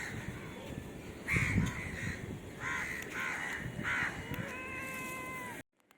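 Crows cawing repeatedly, several harsh calls in a row. Near the end comes a steady, even-pitched tone lasting about a second, then the sound cuts off suddenly.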